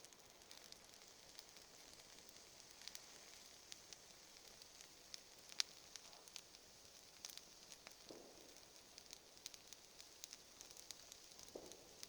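Wood campfire crackling faintly, with scattered sharp pops over a steady hiss; the loudest pop comes about five and a half seconds in.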